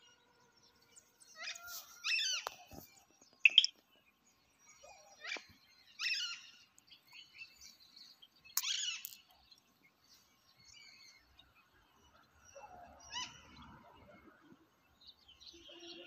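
Several wild birds chirping and calling in short bursts a second or two apart, with quiet gaps between; the loudest is a sharp call about three and a half seconds in.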